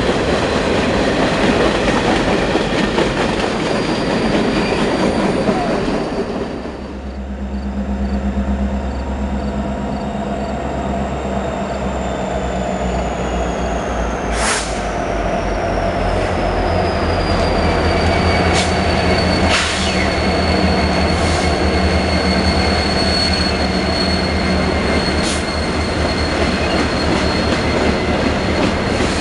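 Freight train rolling by: a loud rumble of wheels on rail, which about six seconds in gives way to a steady low engine drone. A thin high wheel squeal slides down in pitch and then holds, with a few sharp clanks along the way.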